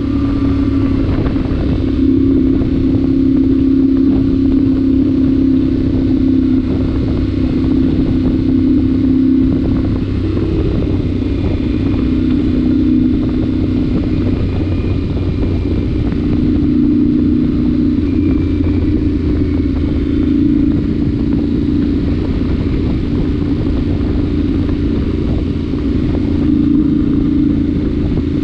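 Yamaha Ténéré 700's 689 cc parallel-twin engine running under way at a steady cruise, with its exhaust spark arrestor removed. The engine note rises and falls a little several times as the throttle changes.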